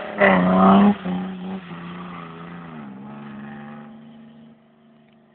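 BMW 320i engine revving hard, then holding steady revs with a dip in pitch about three seconds in, fading as the car moves away.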